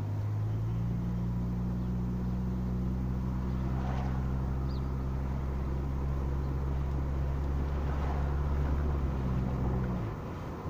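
Car engine and road noise heard from inside the cabin while driving at a steady speed: a steady low drone that drops away near the end.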